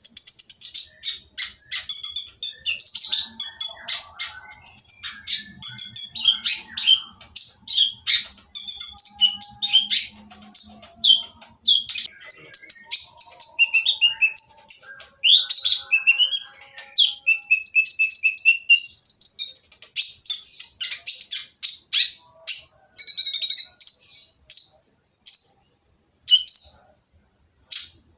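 Kolibri ninja sunbird singing noisily: a fast, nearly unbroken run of high, harsh chirps and short trills, with only brief pauses.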